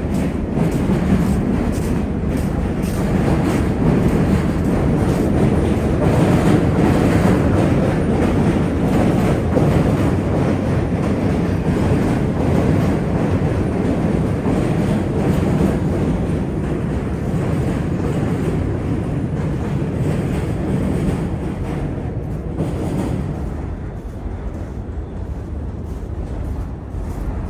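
A train passing on nearby tracks, a continuous heavy rumble that swells over the first half and dies away near the end.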